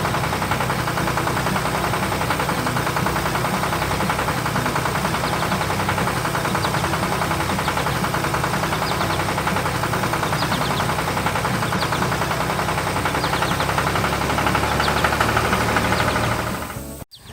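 An engine running steadily with a fast, even chug, cutting off abruptly near the end.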